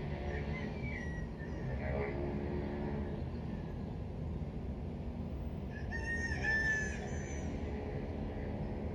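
A rooster crowing once, a drawn-out call about six seconds in, over a steady low background rumble.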